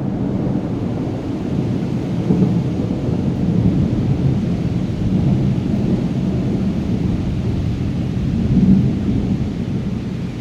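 Thunder rumbling on and on over steady rain, swelling a few times and easing off near the end.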